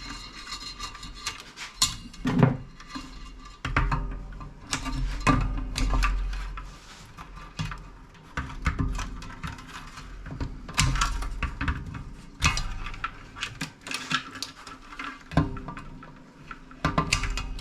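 Irregular clatter, clicks and knocks of parts and tools being handled while a CRT monitor is stripped by hand, with cables and pieces pulled free and set down.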